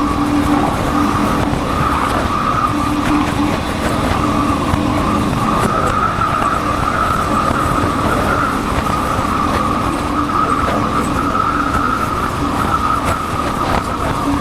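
Motorcycle being ridden along a road, its engine running steadily under wind and road noise.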